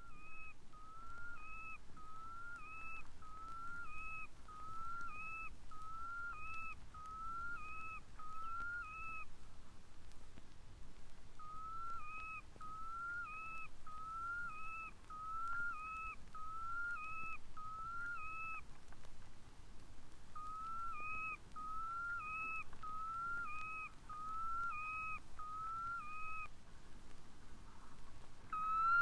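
Red knot (Calidris canutus) calling: a steady series of short whistled notes, each rising then falling, about one a second. The notes come in three runs separated by short pauses.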